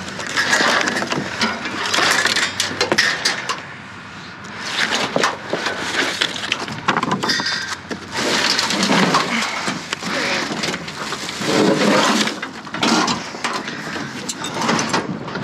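Rummaging through a dumpster's contents: hard objects knocking and clattering against each other and the bin, with rustling in between and many irregular sharp knocks.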